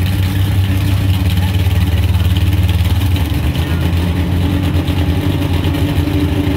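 Drag car's engine idling with a steady, fast-pulsing low beat as the crew pushes the car back after its burnout.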